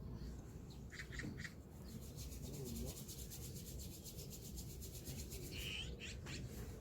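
Birds chirping briefly a couple of times, with a fast, even, high-pitched ticking in the middle, over a steady low outdoor background.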